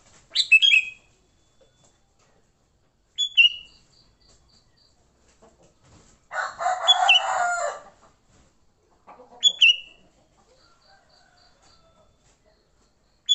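Sooty-headed bulbuls (kutilang) giving short, sharp, down-slurred calls at intervals, the agitated 'fighting' calls used to lure wild bulbuls. Midway a rooster crows for about a second and a half, the loudest sound.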